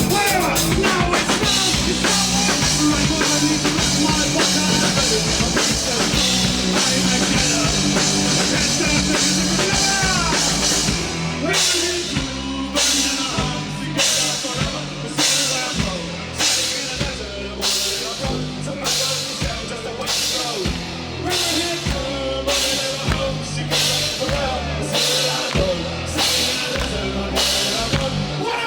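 Rock band playing live, with the drum kit prominent. About eleven seconds in, the full sound breaks into short hits with brief gaps between them, roughly one a second.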